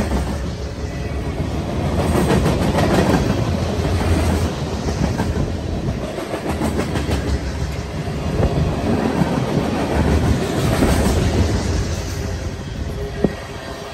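Freight train rolling past at close range: a loud steady rumble of wheels on rail with clacking over the rail joints, swelling and easing every few seconds as the cars go by. A single sharp click near the end.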